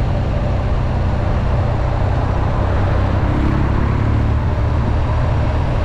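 Motorcycle engine running steadily while riding along, with wind noise rushing over the microphone.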